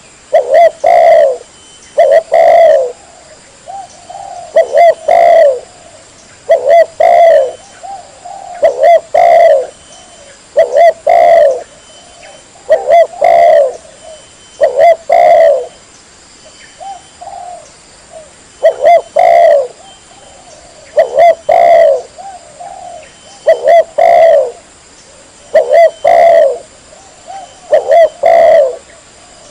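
Spotted dove (tekukur) cooing loudly. Its phrases of two or three coos repeat about every two seconds.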